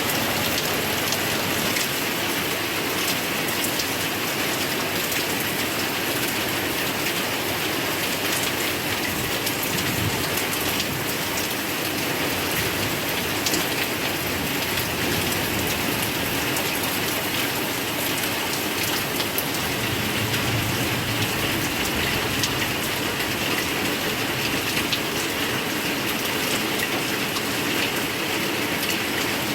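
Heavy rain pouring steadily, a dense even hiss with many individual drops pattering on surfaces.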